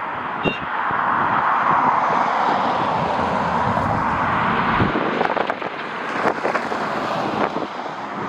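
Airliner jet engine noise, a steady rushing sound that swells over the first few seconds and then eases, with gusty wind buffeting the microphone in the second half.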